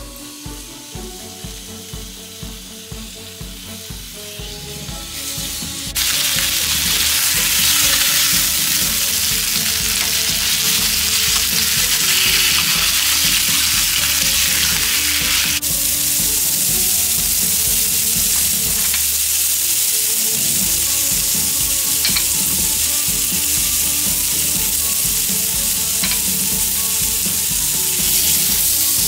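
Chicken breasts frying in olive oil in a pan: a loud, steady sizzle that comes in suddenly about six seconds in, over soft background music with a regular beat.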